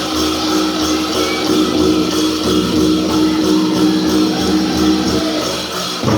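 Powwow drum group singing a prairie chicken dance contest song, voices in unison over a steady beat on a big drum.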